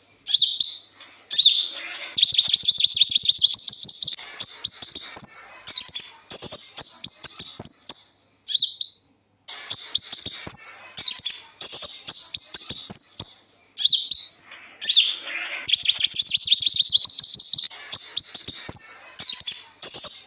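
Kolibri ninja sunbird singing long runs of rapid, high twittering and trilling phrases, with two short pauses along the way.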